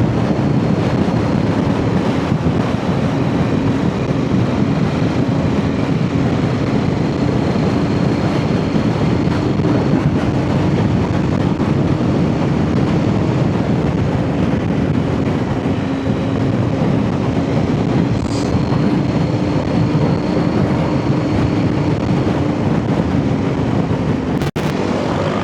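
Off-road motorcycle engine running at a nearly steady note while riding along a trail, with rumbling ride and wind noise. There is a very brief break in the sound near the end.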